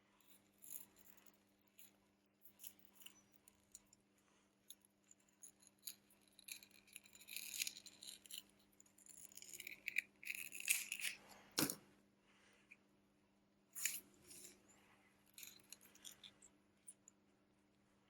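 Small repair tools clicking, rattling and scraping against a smartphone's parts. The handling is busiest around the middle, with one sharp click about two-thirds of the way through.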